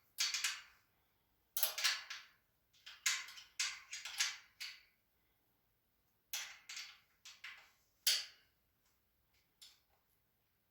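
Metal clinking and rattling from a hand tool and the bolts and parts of a metal shelving unit being handled, in short irregular bursts with pauses between.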